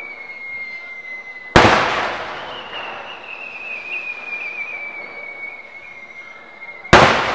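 Fireworks shells going up with a thin whistle that slowly falls in pitch, each ending in a loud sudden bang as the shell bursts. There are two bursts about five seconds apart, each trailing off as it echoes away.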